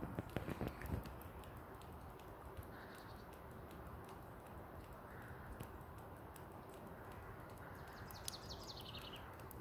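Wood fire in a fireplace crackling faintly, with scattered sharp pops, a few louder knocks in the first second and a short falling chirping trill near the end.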